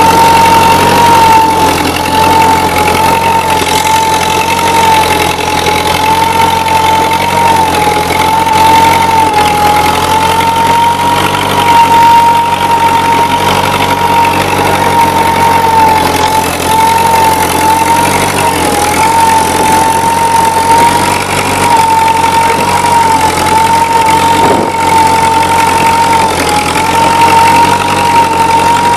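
Ford 9N tractor's four-cylinder flathead engine running steadily under a hard load while pulling a plow, with a high whine whose pitch wavers slightly.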